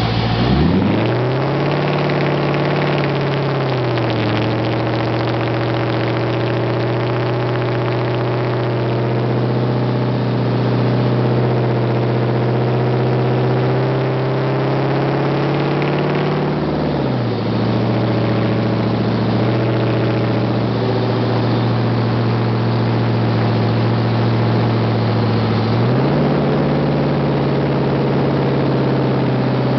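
2006 Jeep SRT-8's 6.1-litre Hemi V8 running through an exhaust with no mufflers or resonators. It picks up in the first second and holds a steady raised speed, settles lower about 17 seconds in, then picks up again near the end.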